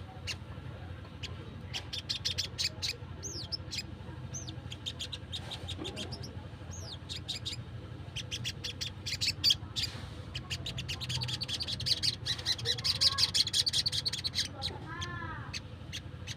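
Wild sunbird calling: rapid sharp, high chips and short arched notes, building into a dense, fast trill about two-thirds of the way through. A steady low hum runs underneath.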